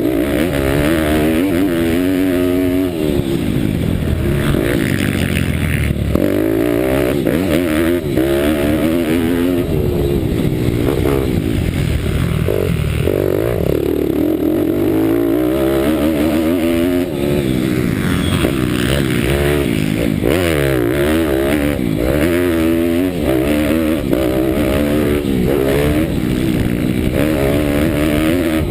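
Bucci Moto pit bike's 190 cc Daytona Anima single-cylinder engine heard from on board under hard riding. Its pitch keeps rising through the revs and dropping back as the rider shifts and brakes.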